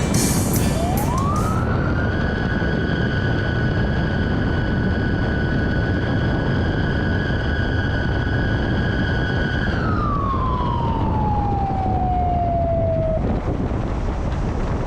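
Outdoor tornado warning siren sounding one long tone. It winds up in about a second, holds steady for about eight seconds, then winds down and stops near the end, over steady vehicle and road noise.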